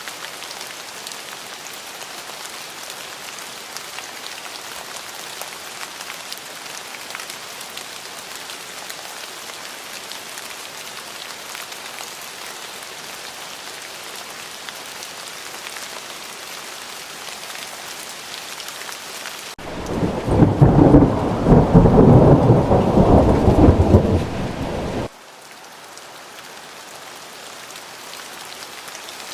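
Steady rain falling on a surface, an even hiss. About twenty seconds in, a loud, low rumble of thunder lasting about five seconds cuts in and then stops abruptly, and the rain returns quieter before building again.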